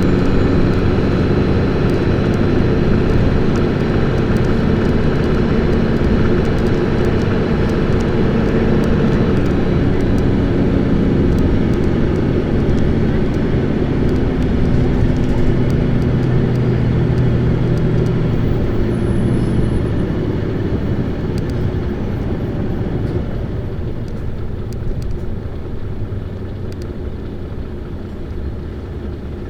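Diesel engine of an Isuzu Erga city bus heard from inside the cabin, pulling hard with its pitch shifting as it accelerates and changes gear. From about two-thirds of the way in the engine eases off and the sound gradually drops away, as when the bus coasts.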